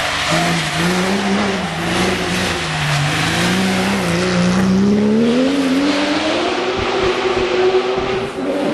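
Porsche 911 GT3 rally car's flat-six engine running hard under load, its pitch wavering up and down, then climbing about halfway through and holding high.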